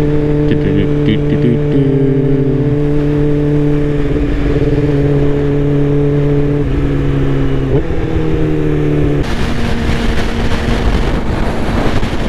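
2005 Yamaha R6's inline-four engine running at steady cruising revs, its pitch shifting slightly a few times. About nine seconds in, wind noise rushes over the microphone and largely covers the engine.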